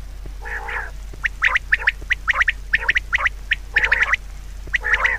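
Birds calling: quick runs of short, high calls, with a few longer, lower calls that have a rough, nasal edge.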